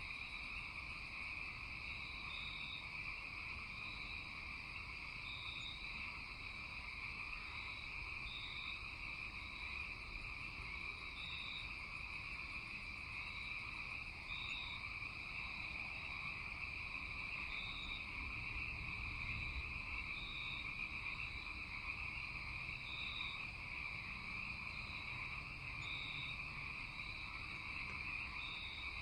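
Night chorus of frogs: a steady high trilling drone, with a short, higher call repeating about every second and a half.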